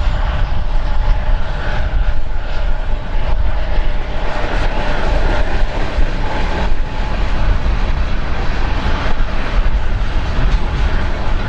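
Freight cars of a CN train (gondolas, tank cars and covered hoppers) rolling past, a steady loud rumble of wheels on rail, overlaid by heavy wind buffeting the microphone.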